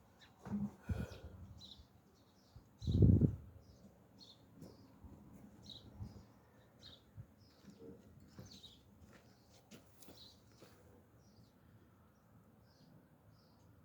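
Small birds chirping repeatedly in short calls. A loud dull thump about three seconds in, with a couple of lighter knocks near the start.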